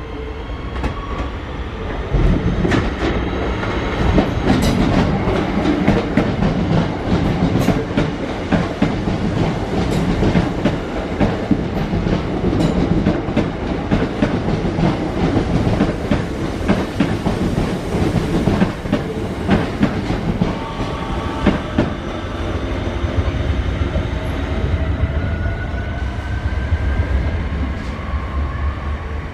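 Two coupled Class 323 electric multiple units pulling out and passing close by: a steady low rumble, with the wheels clicking repeatedly over rail joints as the carriages go past. In the last several seconds a whine rises in pitch as the train accelerates away.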